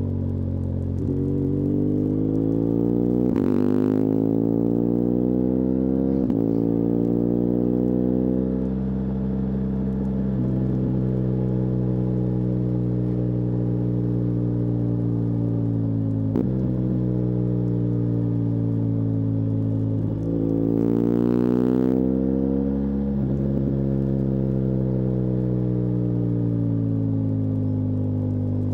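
BMW R1200GS Adventure's liquid-cooled boxer twin running under way, its pitch climbing and then dropping several times, with a steady stretch in the middle.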